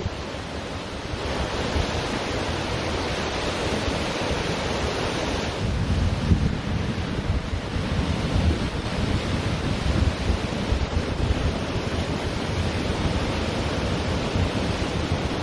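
Ocean surf washing continuously onto a beach, with wind rumbling on the microphone, heavier from about a third of the way in.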